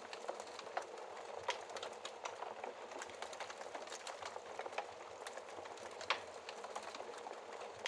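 Wood fire burning in a fireplace, crackling steadily with irregular small pops over a soft hiss. A couple of louder snaps come about a second and a half in and again about six seconds in.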